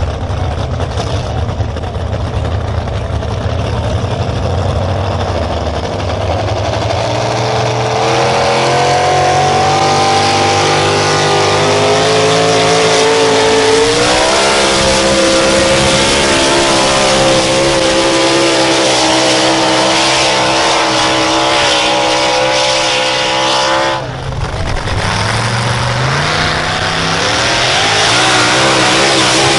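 A pulling truck or tractor engine running hard under load. Its pitch climbs steadily for several seconds, jumps up about halfway through and holds high. It drops sharply a few seconds before the end, then climbs again with wavering revs.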